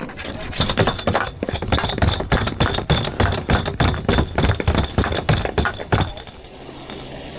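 Plastic fuel canister knocking and clattering as petrol is emptied from it into a motorboat's tank, in a quick irregular run of knocks that stops about six seconds in, leaving a low steady hum.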